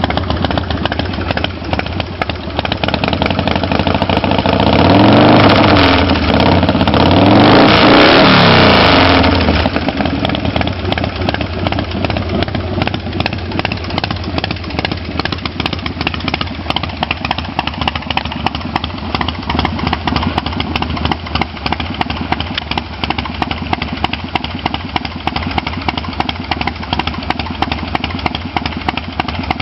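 Harley-Davidson Softail V-twin running through open drag pipes: idling, then revved up twice between about five and ten seconds in, the pitch rising and falling each time, before settling back to idle.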